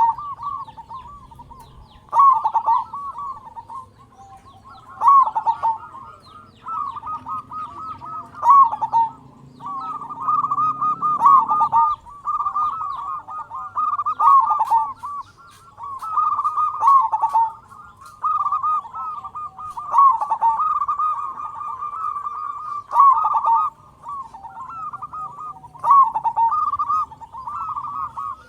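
Zebra dove (perkutut) cooing: repeated phrases of rapid, rolling coos, each a second or two long, coming every two to three seconds.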